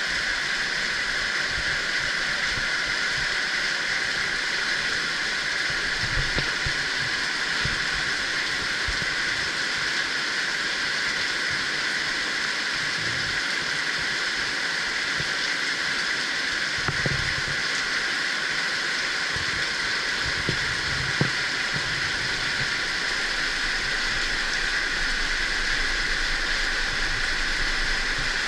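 Heavy rain falling steadily, a dense, even hiss that doesn't let up. A few soft low thumps come through now and then.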